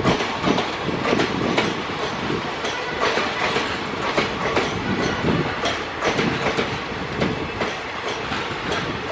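Passenger coaches rolling past at speed: a steady rumble and rush with a rapid, uneven clickety-clack of the wheels going over the track.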